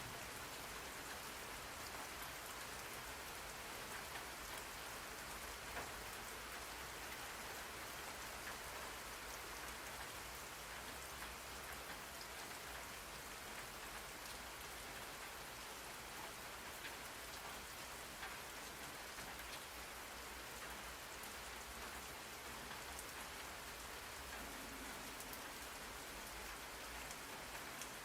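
Steady rain falling on a surface, an even hiss with many faint drop ticks.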